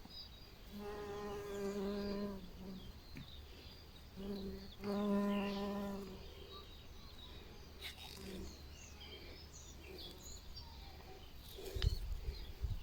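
A flying insect buzzing twice at a steady pitch, about a second in and again from about four to six seconds, the second time louder.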